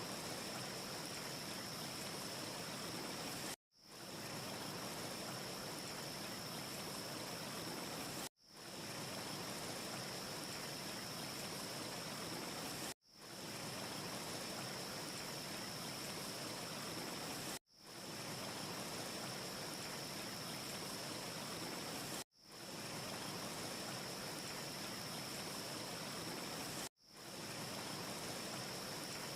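Steady rushing noise with a thin high hiss on top, a short ambience loop. About every four and a half seconds it cuts out for an instant and fades back in, six times in all.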